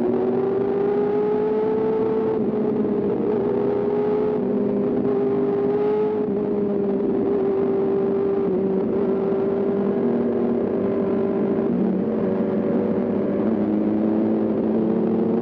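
Sport motorcycle engine running at high revs under way, its note holding fairly steady with small rises and dips in pitch.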